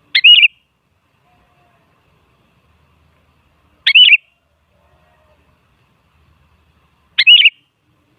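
Sooty-headed bulbul (kutilang) giving three short, loud warbled calls about three and a half seconds apart, played as a lure call to set other kutilang singing.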